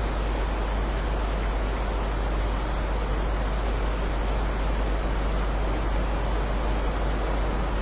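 Steady heavy rain: an even, unbroken hiss with a strong low rumble underneath.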